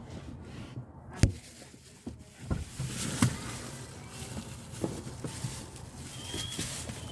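Distant fireworks going off: a few scattered sharp pops and thumps, the loudest about a second in, over a low background hiss.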